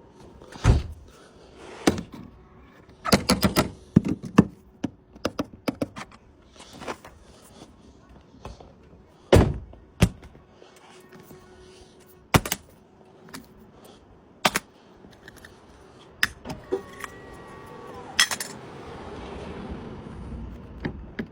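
A series of sharp thunks and clicks at irregular intervals, some in quick clusters, followed by a few short tones and a rising hiss near the end.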